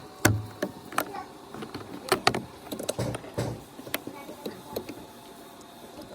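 Irregular sharp clicks and knocks as electrical connectors are plugged in and fittings are worked on inside a car door, the loudest about a third of a second in and again around two seconds in.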